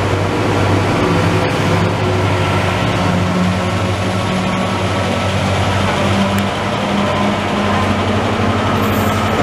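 Israel Railways double-deck passenger train pulling out, with its locomotive passing close by: a steady low engine hum over continuous wheel and rail rumble, the hum rising a little in pitch about three seconds in.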